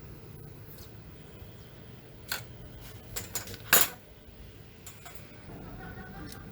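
A handful of sharp clicks and clinks of small hard parts being handled, the loudest a little past halfway, over a low steady hum.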